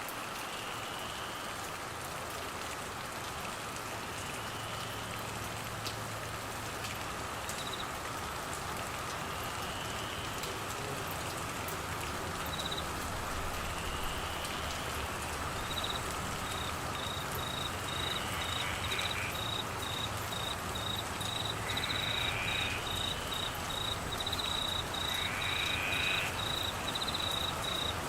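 Steady rain falling. An insect's rapid pulsed high trill sets in about halfway and grows continuous, and a short rising call repeats every few seconds.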